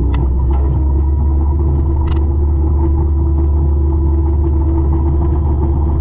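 A 200-horsepower forestry mulcher's diesel engine running steadily: a heavy, even low rumble with a held tone above it, and a couple of brief sharp ticks, one at the start and one about two seconds in.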